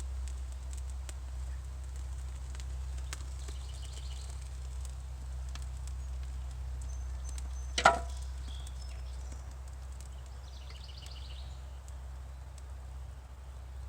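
Small kindling fire of split pine sticks crackling, with scattered faint pops over a low steady rumble. One sharp, louder knock comes about eight seconds in.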